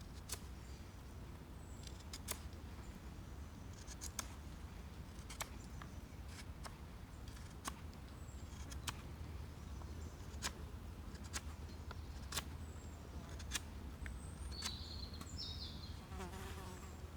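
Irregular sharp clicks or snaps, roughly one every second, over a steady low rumble, with a few short high chirps near the end.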